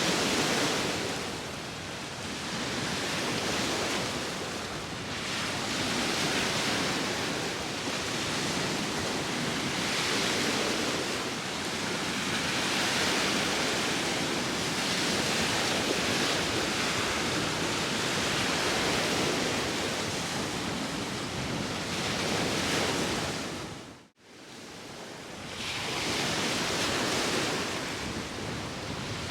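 Sea waves washing in with wind, a steady rushing that swells and eases every few seconds. The sound cuts out abruptly for a moment about three-quarters of the way through, then returns.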